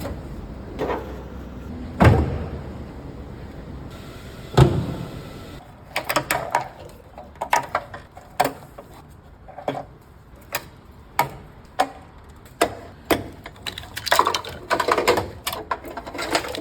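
Knocks, clunks and clicks of car parts and hand tools being handled while a car is taken apart. There are two heavy thumps in the first five seconds, then many quicker clicks and rattles.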